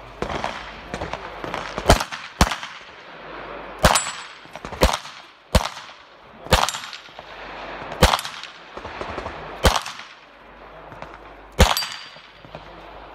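Nine handgun shots, spaced irregularly from about half a second to two seconds apart, each with a short echo.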